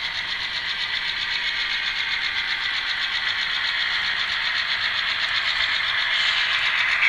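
Diesel engine sound from an ESU LokSound decoder in an N scale Atlas GP38-2 model locomotive, played through its tiny onboard speaker with no bass: a steady, fast-pulsing throb that slowly grows louder.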